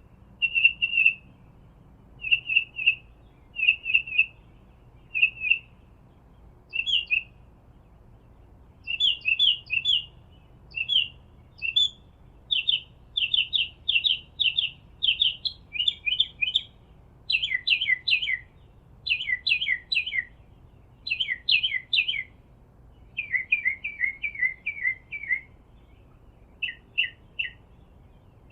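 A bird singing in short, high chirp phrases repeated about every second, which turn into quicker runs of falling notes in the second half.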